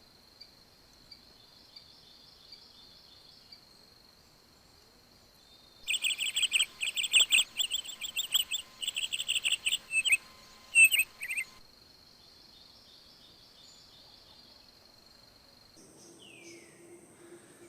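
A bird giving a rapid series of loud chirps for about five seconds in the middle, over a steady high-pitched drone of crickets.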